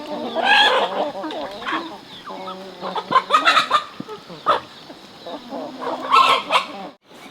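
Chickens clucking, with louder bursts of calls about half a second in, around three and a half seconds, and just after six seconds.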